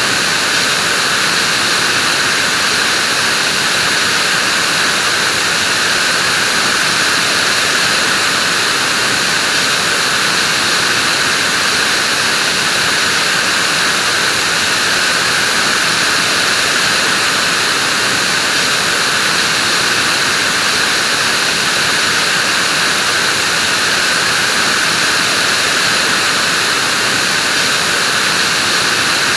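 Vacuum cleaner running steadily, a continuous airy whoosh with a hissy, high-leaning tone, little bass and no change in level.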